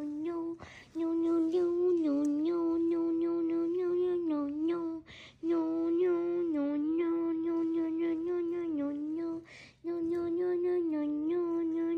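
A person humming one held note with small dips in pitch, stopping to breathe in about every four and a half seconds.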